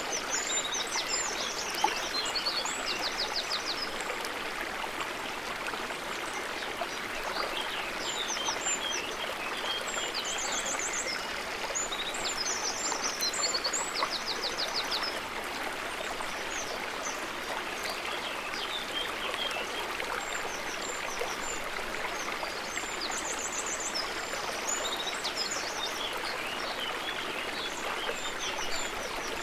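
River water running steadily over rocks, a continuous rushing flow. Small birds call in quick high trills over it now and then, at the start, in the middle and again near the end.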